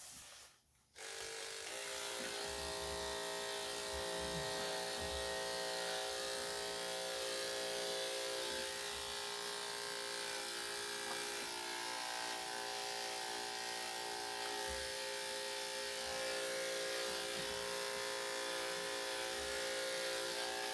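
Electric dog grooming clippers with a #10 blade, switched on about a second in and then running with a steady hum, clipping through thick built-up hair.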